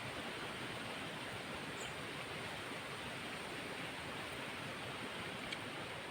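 Steady, even outdoor background hiss with no clear event in it, apart from one brief faint high chirp about two seconds in.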